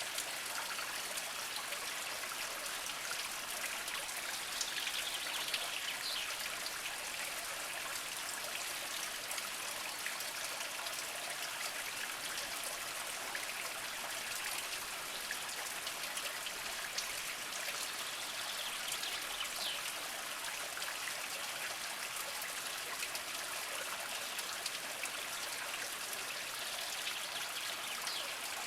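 Small mountain spring trickling slowly over mossy rocks: a steady flow of water with many small drips and splashes.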